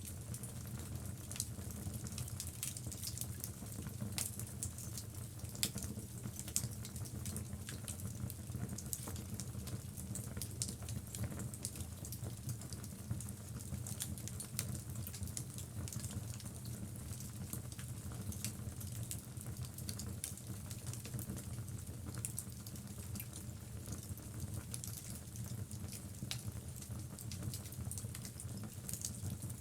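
Wood logs burning in a fireplace: a steady low rumble of the flames with frequent small, sharp crackles and pops throughout.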